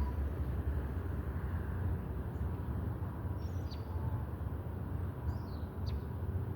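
Outdoor street ambience: a steady low rumble with a few short, high bird chirps scattered through it.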